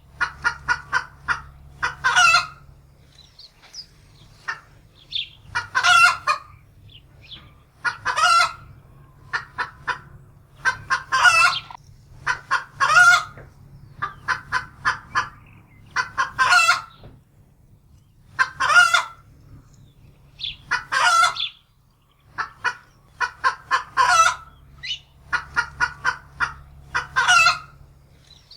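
Domestic hen cackling in alarm, frightened: repeated bouts of quick short clucks each ending in a long, loud squawk, roughly every two seconds.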